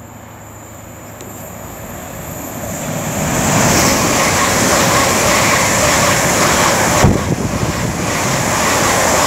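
Greater Anglia Class 720 electric multiple unit running through the station close by: the rush and rumble of wheels and air builds over the first three seconds, then holds steady as the carriages pass. There is one sharp knock about seven seconds in.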